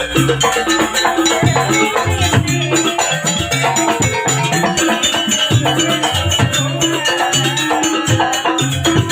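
Live jaranan music: an East Javanese percussion ensemble of drums and tuned metal percussion playing a fast, steady rhythm, with a repeating pattern of low pitched notes under a busy melodic line.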